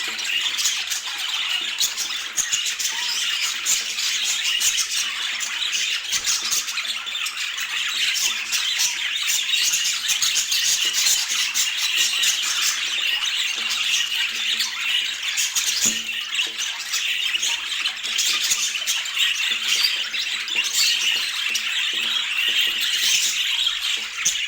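Budgerigars chattering without pause, a dense stream of chirps and clicks.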